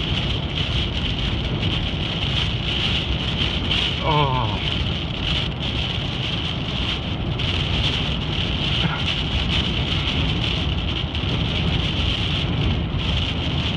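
Heavy rain hitting a car during a thunderstorm, a steady hiss over the low rumble of the car driving on a wet road.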